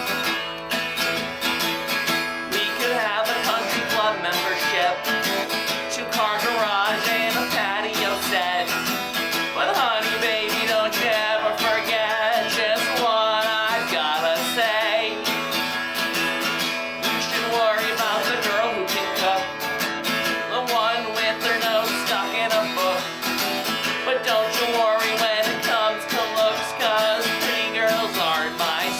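Live acoustic music: a strummed acoustic guitar in a country style, with a wavering melody line over it.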